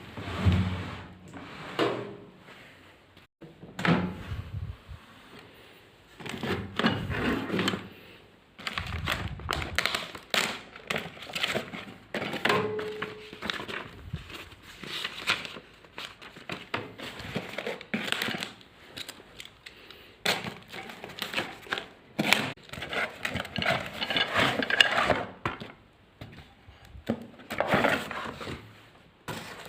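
A string of irregular knocks, clicks and rustles from a microwave oven being handled, with a brief tone about twelve seconds in.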